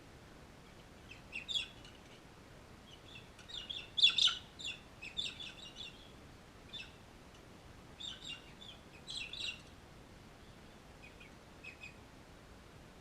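Crimson rosellas giving short, sharp chirping calls in scattered bursts. The busiest and loudest stretch comes about four to six seconds in, another burst follows around eight to nine seconds, and a few fainter chirps come near the end.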